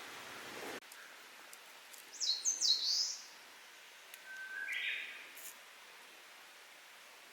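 An Eastern crowned warbler sings one song phrase about two seconds in: a quick run of high, repeated notes. A lower, softer call follows a couple of seconds later.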